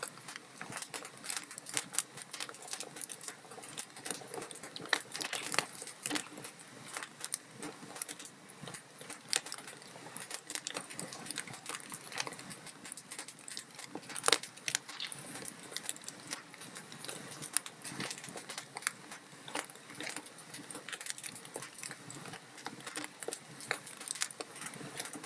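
Wood log fire crackling: irregular, closely spaced pops and snaps over a soft hiss, with one sharper pop a little past halfway.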